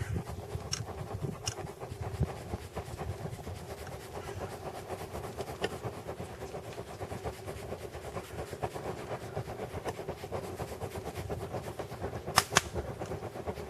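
Log 'candle' campfire (Swedish torch) burning with a steady rushing, fluttering sound and scattered crackles, with two sharp loud pops near the end.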